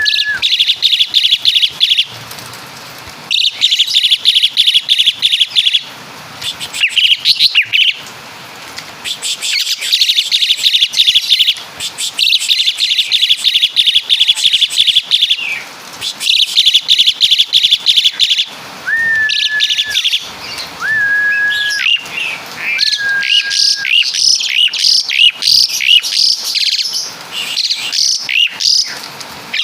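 Javan pied starling (jalak suren) singing in repeated bursts of fast, high, rapid-fire chattering, each about two seconds long with short breaks. Past the middle come three clear, level whistles, followed by a denser jumble of chirps. The song is built from mimicked 'tembakan' calls of the caladi (woodpecker) and kapas tembak.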